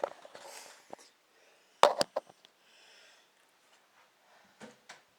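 Kitchen items being handled on a counter: a brief rustle at the start, then two sharp knocks close together about two seconds in, and two lighter knocks near the end.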